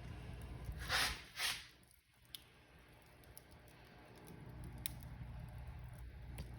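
Wood fire crackling in a fireplace: a steady low rumble of flames with two loud hissing pops about a second in, then scattered sharp crackles.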